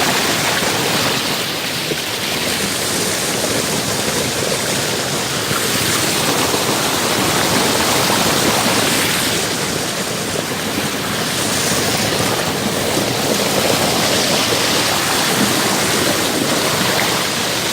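Fast mountain creek water rushing and cascading over rocks in a loud, steady rush.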